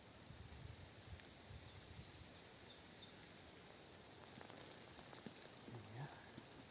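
Near silence: faint steady outdoor background hiss, with a few faint short high chirps about two to three seconds in.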